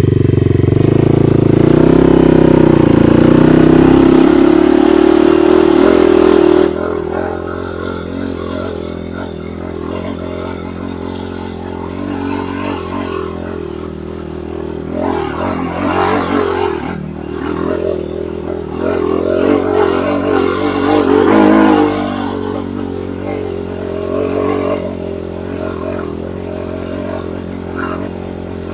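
Enduro motorcycle engine revving hard under load, as on a steep climb, for about the first six seconds, then dropping suddenly to a quieter, uneven running with a couple of short rises in revs later on.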